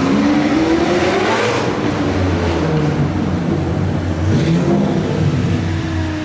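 Car engine revving, rising and falling in pitch twice.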